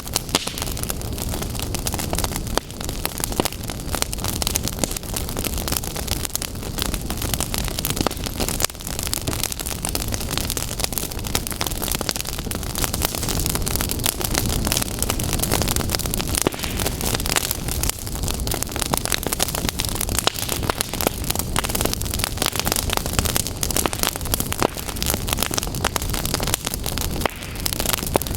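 Fire crackling, a dense, continuous run of sharp pops and snaps over a steady hiss.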